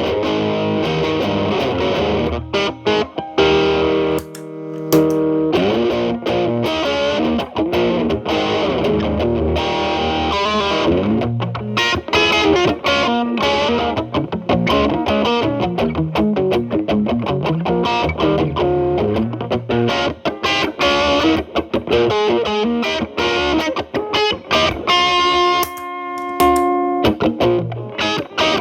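Telecaster played through an MI Audio Crunch Box distortion pedal into a Marshall Valvestate's clean channel, with single-note lines and chords and a couple of held chords. The pedal is at a high gain with the guitar's volume rolled back to clean it up, so it is a lighter, crunchy overdrive.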